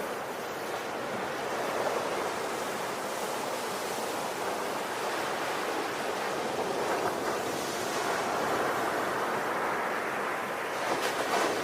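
Ocean surf: a steady rush of waves that swells and eases every few seconds, with a short crackling fizz near the end.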